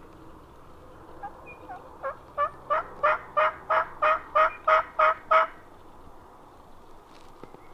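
Wild turkey yelping: a run of about ten yelps, about three a second, getting louder, after a couple of softer notes.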